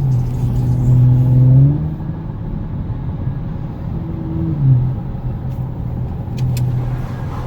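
2019 Audi S5 Sportback's turbocharged V6 engine accelerating hard. Its note climbs for under two seconds and drops back, climbs briefly again about four seconds in, then holds a steady drone.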